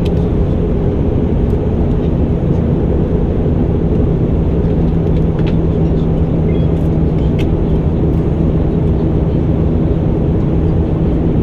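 Airbus A319 cabin noise on descent: a steady drone of engines and airflow, with a low steady hum, heard from inside the cabin.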